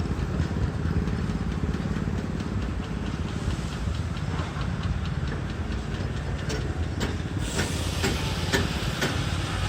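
Steam traction engine running with a steady low rumble; about three-quarters of the way in a steam hiss rises, along with several sharp clicks or knocks.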